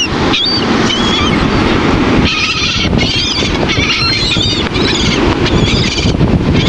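A flock of gulls calling, many short overlapping cries one after another, over a loud low rush of wind on the microphone.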